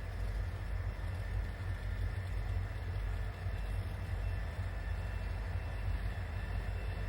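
Diesel-hauled freight train moving out of a yard: a steady low rumble with no distinct clanks or horn.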